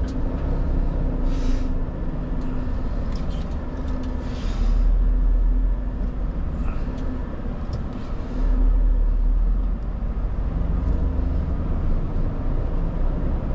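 Renault Trucks T480 lorry's diesel engine running at low speed, swelling louder twice as it pulls through a tight turn, with two short hisses of air.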